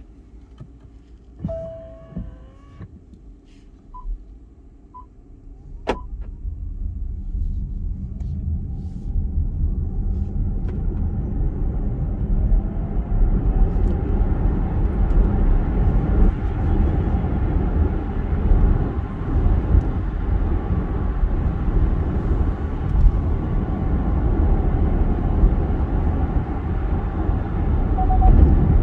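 A few short electronic beeps, then VinFast VF8 electric SUV road and tyre noise on a wet road. The low rumble builds over several seconds as the car gathers speed and then holds steady.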